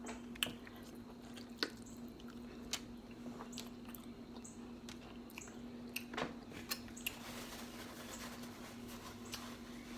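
Close-miked chewing and wet, squishy mouth sounds of someone eating seafood, with scattered small clicks and cracks throughout. A faint steady hum runs underneath.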